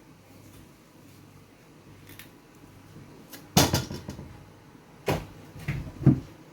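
Cooking pot and lid clattering: a loud knock about three and a half seconds in, another about a second and a half later, then two lighter taps.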